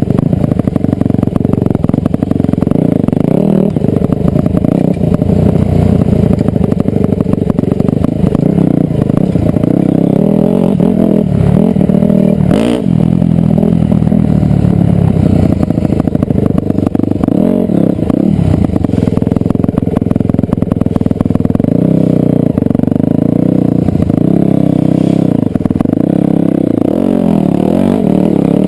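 Dirt bike engine running hard as it is ridden, the pitch rising and falling over and over with the throttle. A single sharp knock about halfway through.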